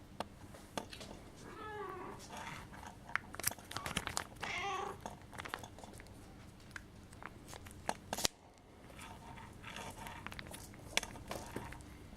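Scottish Fold kittens mewing: two clear high mews in the first five seconds and fainter ones later, among scattered small clicks and knocks.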